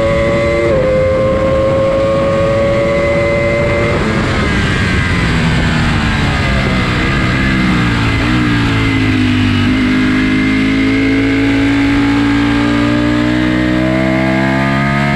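Ducati sport bike engine heard from on board at racing speed. It pulls hard with an upshift about a second in, then goes off the throttle around four seconds in and drops down through the gears on the brakes with short rises in pitch at the downshifts. It holds a steady lower note through the corner and revs up again near the end as the bike accelerates out, with wind rush throughout.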